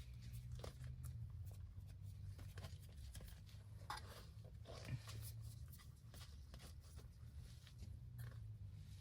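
Faint rustling, scraping and light ticks of hands working on material, over a low steady hum. A couple of slightly sharper ticks come about four and five seconds in.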